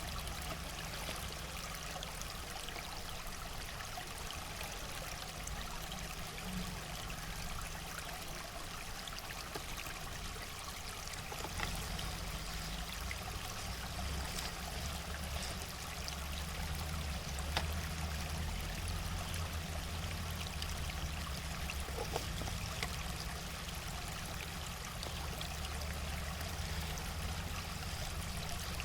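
River water flowing steadily, with a low rumble underneath.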